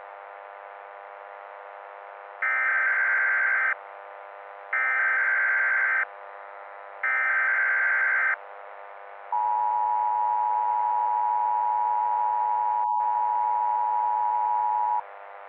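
Emergency Alert System SAME header: three bursts of warbling digital data tones, each about a second long, then the two-tone EAS attention signal held steady for about six seconds. A steady hum of tones runs underneath.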